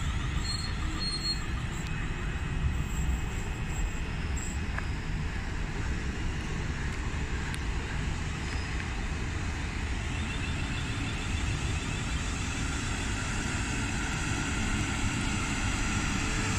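Train running through the station: a steady low rumble of wheels and motors, with a few short high beeps in the first second or so and a faint high squeal building toward the end.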